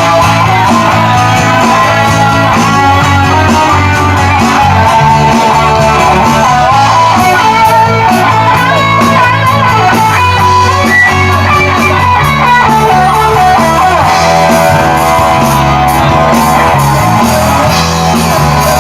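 Live rock band playing an instrumental break, an electric guitar taking the melody over bass and drums.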